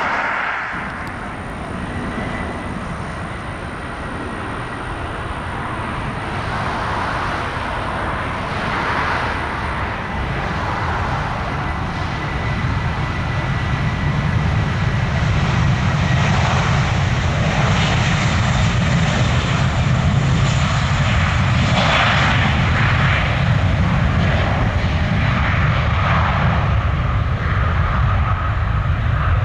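Jet airliner's engines running at takeoff thrust on the departure run, a rumble that grows louder from about halfway through, with a thin high whine in the first part.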